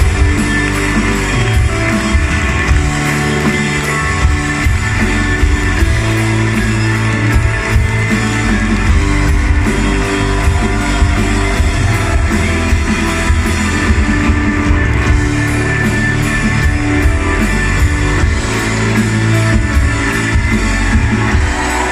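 Live rock band playing loudly through a concert PA: electric guitars, bass and drum kit, with a little singing, heard from the crowd.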